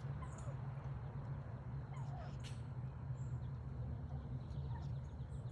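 Scattered bird calls, short high chirps and a few brief falling notes, over a steady low hum.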